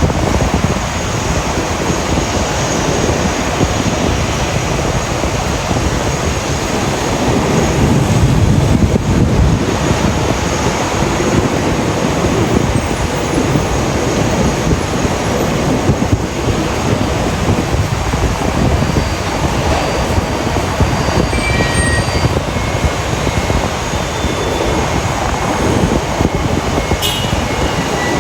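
Airbus A350-900's Rolls-Royce Trent XWB jet engines running, a steady loud rumble that swells slightly about eight to ten seconds in.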